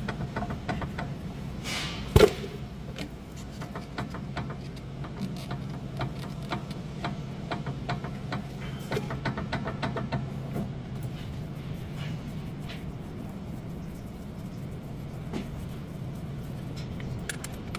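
Car engine idling steadily, with scattered light clicks and knocks and one sharp knock about two seconds in.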